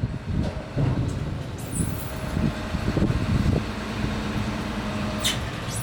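Diesel machinery working at a sugarcane loading siding: a rumble with irregular knocks and clatter for the first two seconds, settling into a steady engine hum. A brief high metallic squeal comes near the end.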